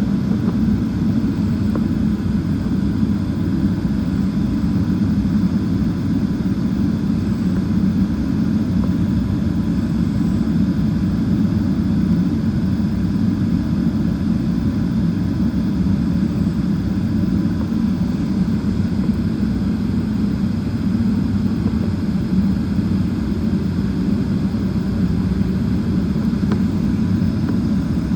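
Steady low rumble of a Boeing 777-300ER's GE90 jet engines at low power, with no rise or fall in pitch or loudness.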